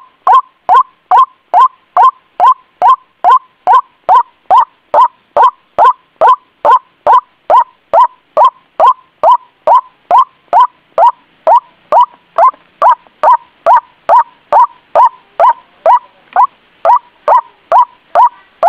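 White-breasted waterhen calling: a loud, short note repeated at an even pace, about three times a second, without a break.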